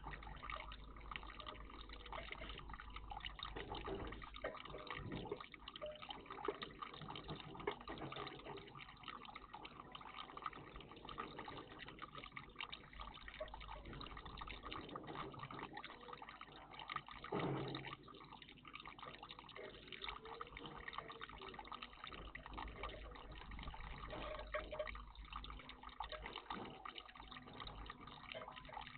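Water trickling steadily in a garden bird bath, with a few brief louder moments.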